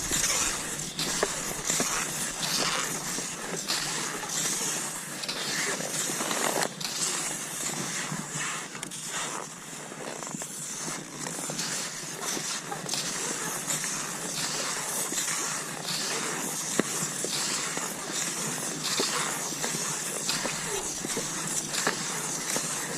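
Cross-country skis sliding over snow in a steady stride: a continuous hiss broken by many short scrapes and crunches.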